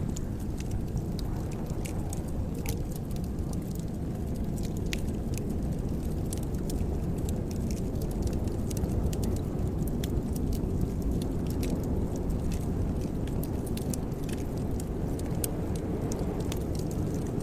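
Wood fire burning in a fireplace: irregular small crackles and pops over a steady low rush of flames.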